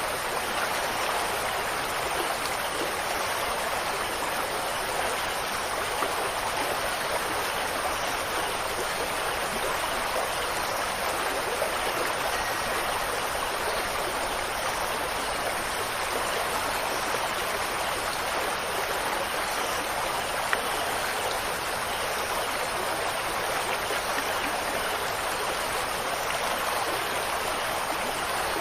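Steady rushing water, a dense and even wash of noise without pauses.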